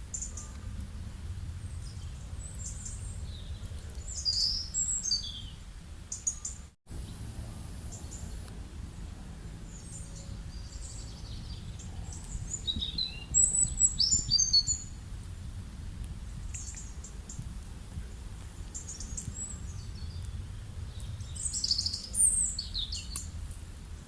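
Small birds chirping and twittering in short high bursts, in three clusters about 4 s, 13 s and 22 s in, over a steady low rumble. The sound drops out for an instant about 7 s in.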